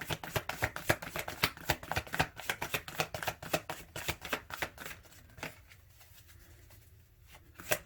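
A deck of tarot cards being shuffled by hand: a quick, dense run of card flicks and slaps for about five seconds, then it dies down, with a few faint taps near the end.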